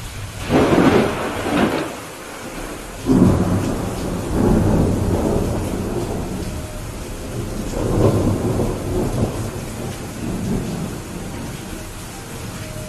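Steady rain with thunder rumbling over it. One peal begins about half a second in, a sharper clap comes about three seconds in and rolls on for several seconds, and a further rumble swells around eight seconds.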